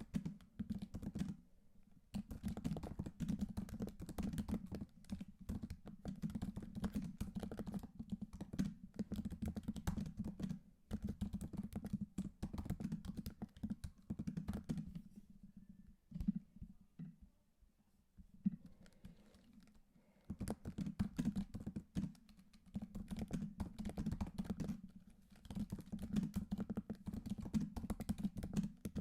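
Typing on a computer keyboard: quick runs of keystrokes with short breaks, and a longer lull about sixteen to eighteen seconds in.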